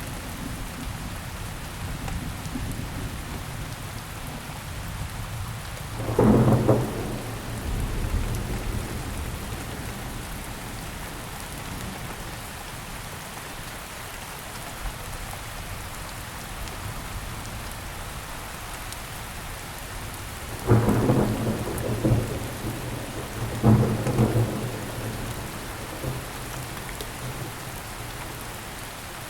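Steady heavy rain falling, with thunder breaking loudly three times: once about six seconds in, then twice about three seconds apart later on. Each clap is followed by a low rumble.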